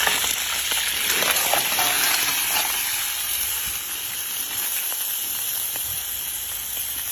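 Scallion, ginger and garlic frying in hot oil: a steady sizzle, with a few light clicks of stirring in the first few seconds.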